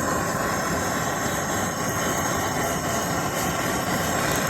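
Gas blowtorch flame running with a steady rushing hiss as it chars pine cladding.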